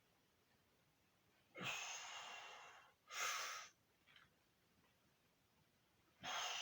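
A man breathing hard from the exertion of a set of squats: a long breath about one and a half seconds in, a short sharp breath right after it, and another long breath near the end.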